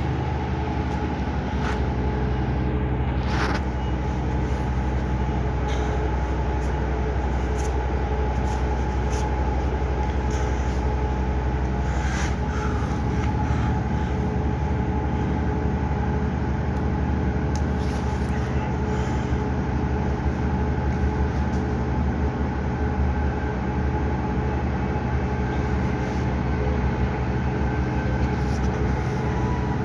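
Steady machine drone: an engine or motor running at an even pitch, with a few light clicks over it.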